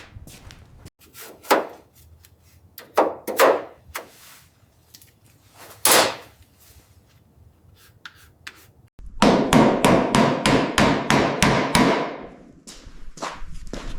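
Workshop hammering: a few scattered single knocks, then about three seconds in from the two-thirds mark a fast run of hammer blows at roughly four or five a second.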